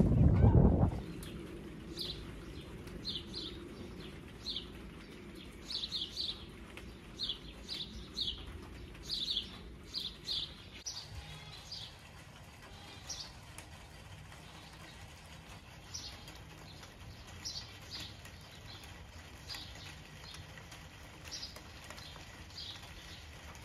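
Small songbirds chirping: short high chirps, one every second or so, thinning out about halfway through. A loud noise fills the first second.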